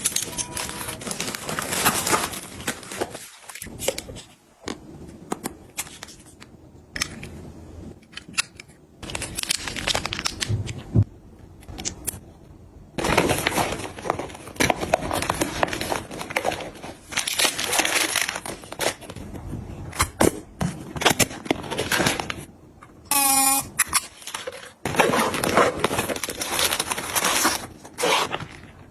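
Close-up handling of plastic packaging and containers: crinkling, tearing and crackling rustles mixed with irregular clicks and taps, with a short falling tone about three-quarters of the way through.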